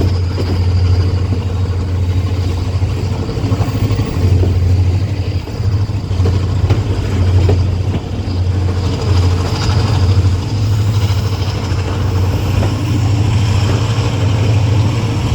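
Passenger train running on the line, heard from aboard a coach: a loud, steady low rumble of the moving train and its wheels on the track.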